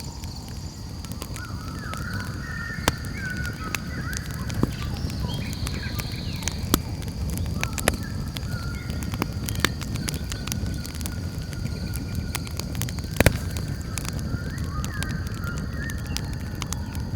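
Campfire burning with a steady low rush and scattered sharp crackles and pops, one louder pop about two-thirds of the way through. Over it are a steady high insect-like drone and short wavering chirping calls near the start and near the end.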